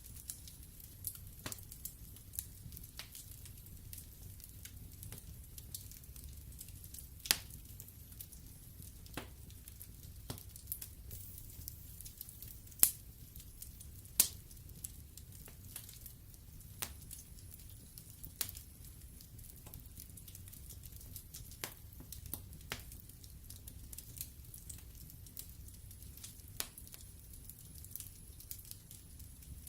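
Wood fire in a fireplace crackling: burning logs give irregular sharp pops and snaps, a few much louder than the rest, over a low steady rumble.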